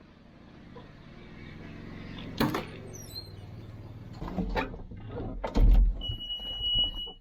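Several heavy metal clunks and knocks over a low running hum, the loudest a bit past halfway. Then a steady high-pitched electronic beep is held for about a second until the sound cuts off.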